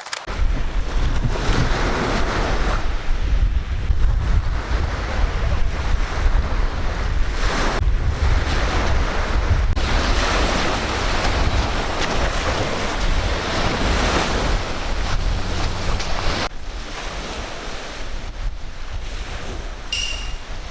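Strong wind buffeting the microphone with a heavy low rumble, over surf breaking on the shore; the wind noise eases slightly near the end.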